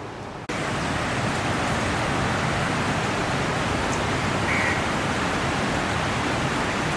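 Steady rain falling, an even dense hiss that jumps suddenly louder about half a second in and then holds steady.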